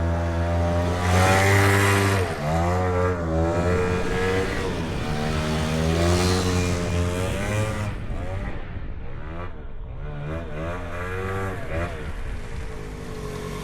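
Suzuki LT80 quad's small single-cylinder two-stroke engine being ridden, its pitch rising and falling over and over as the throttle is opened and eased. It gets quieter for a few seconds past the middle, then picks up again.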